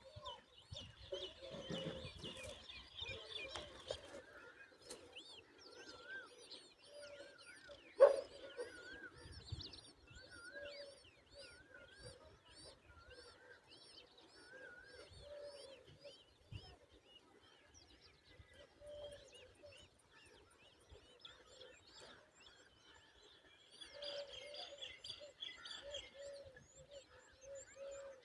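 Several birds chirping and calling over and over, with high short chirps, a repeated warbling call and lower calls overlapping, busier near the start and again near the end. A single sharp knock about eight seconds in is the loudest sound.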